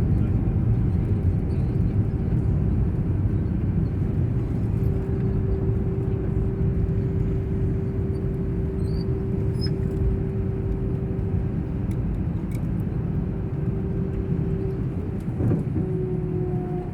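Steady cabin noise of an Airbus A319 taxiing after landing: a low engine and rolling rumble with a steady hum tone through it, easing slightly in loudness.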